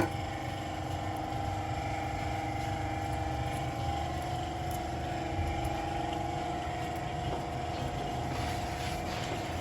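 A motor running steadily, a constant hum with a few fixed tones over a low rumble.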